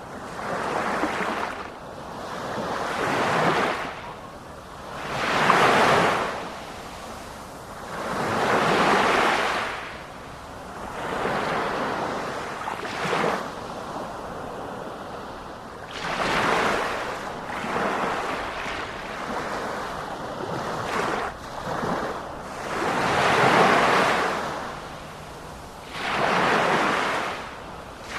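Ocean waves breaking and washing on a shore in a steady rhythm, a surge every two to three seconds that swells and fades away.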